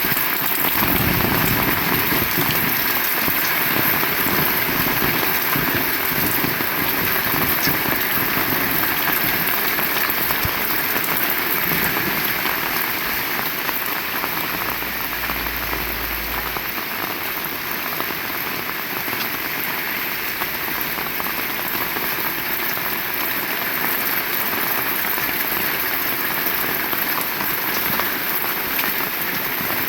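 Heavy rain pouring steadily, drops hitting surfaces all around, with a brief low rumble about halfway through.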